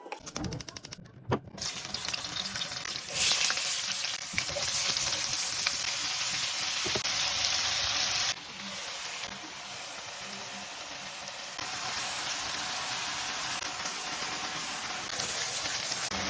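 Sausage-and-vegetable stir-fry sizzling in a hot frying pan, with a few utensil clicks against the pan near the start. The sizzle steps up sharply about three seconds in, drops back about eight seconds in, and builds again toward the end.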